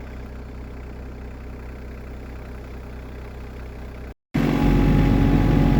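Tractor engine idling steadily as it warms up in the cold. After a brief break about four seconds in, the engine is heard much louder and closer.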